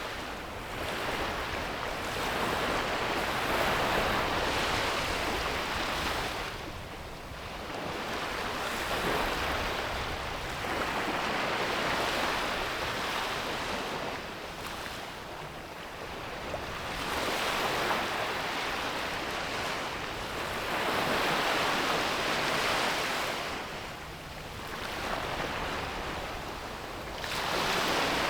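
Sea waves breaking and washing up a beach, a hiss of surf that swells and falls back in slow surges every several seconds.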